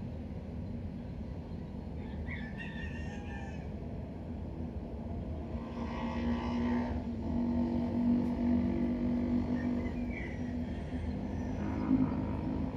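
Low, steady rumble of vehicle traffic, with a louder engine hum from about six seconds in that fades near ten seconds, and a few short chirps.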